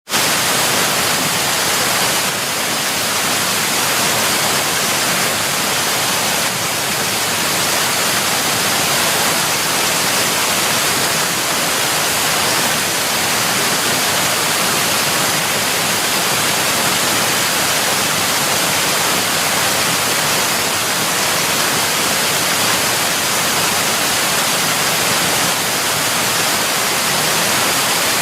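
Waterfall: water falling and splashing in a steady, loud rush with no change in level.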